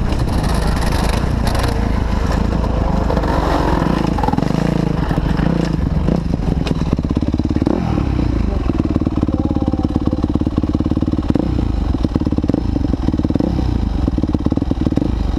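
Motocross dirt bike engines running loud and revving, the pitch rising and falling about halfway through.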